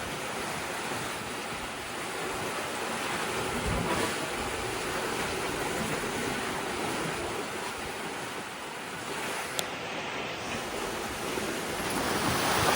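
Steady rush of wind and sea water around a sailboat under way at sea, with a single faint click about ten seconds in.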